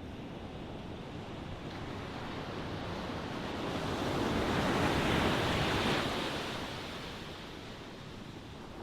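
Ocean waves: a wave swells, breaks with a rushing wash about four to six seconds in, then recedes.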